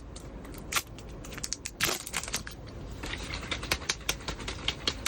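Plastic protein-shake bottle being handled and its screw cap twisted open: a run of irregular sharp plastic clicks and crackles over a low steady hum.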